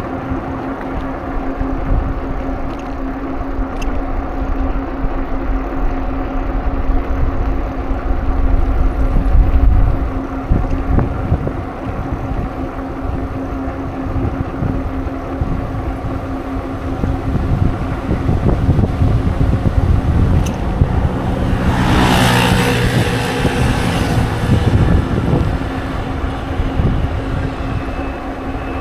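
Low wind rumble on the microphone of a moving bicycle, over a steady hum. About three-quarters of the way in, a car passes close by: a loud rush that swells and fades over about two seconds.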